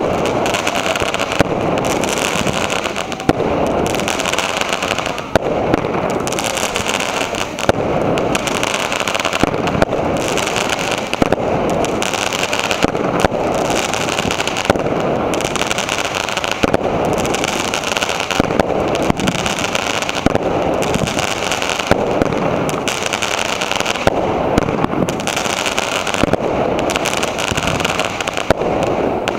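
Ground-launched fireworks firing continuously, giving a dense hiss and crackle with sharp pops throughout that swell about every two seconds.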